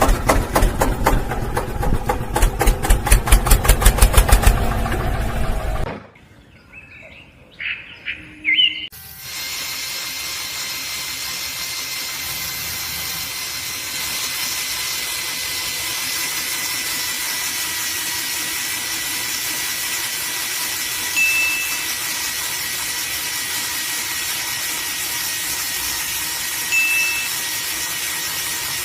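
Small motor running with a rapid rhythmic beat that stops abruptly about six seconds in. After a few clicks, a steady hiss with a faint high whine follows.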